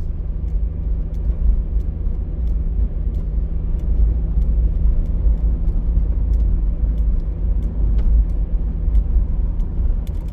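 Steady low rumble of a car driving, heard from inside the cabin, with scattered sharp ticks of hail striking the car's body.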